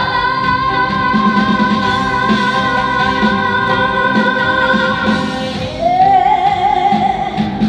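Live trot song: a woman singing long held notes with vibrato over a band. A new sung phrase comes in about six seconds in.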